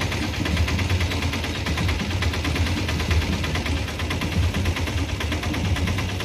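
BCN covered goods wagons of a freight train rolling slowly past, their wheels clattering over yard points and rail joints in a steady rapid rattle, over a continuous low rumble.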